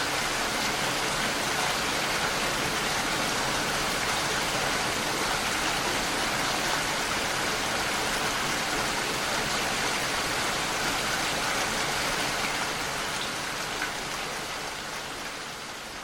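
Heavy rain falling steadily on a window pane, a dense even hiss of drops. It begins to fade out about thirteen seconds in.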